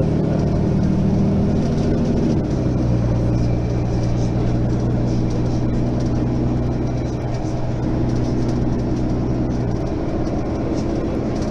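Diesel engine of a Mercedes-Benz Citaro facelift city bus pulling under way; about two seconds in its note drops sharply as the automatic gearbox shifts up, then holds steady before changing again near the end.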